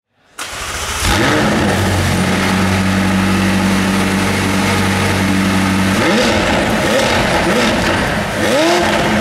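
McLaren 600LT's twin-turbo V8 running loud through its top-exit exhausts. It fades in and holds a steady note for about five seconds, then rises and falls in pitch about twice a second, as in repeated revs.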